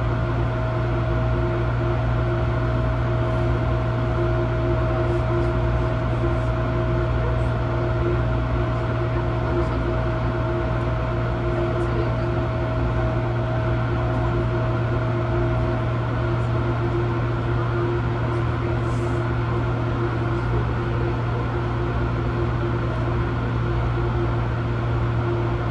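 Steady electrical hum and whine inside an Airport Express A-Train carriage while the train stands, from its on-board equipment and air conditioning. A low hum runs under two steady whining tones, and the higher tone stops about two thirds of the way through.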